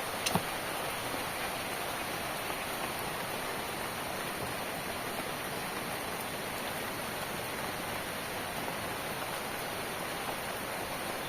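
Steady rain falling, with one sharp tap, such as a drop striking a surface, just after the start.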